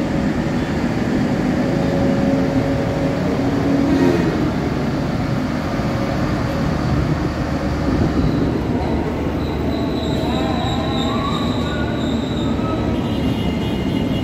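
Locomotive-hauled passenger train rolling slowly through the station, a steady rumble of wheels on rails with wheel squeal; a high squeal comes in about nine seconds in and lasts a few seconds.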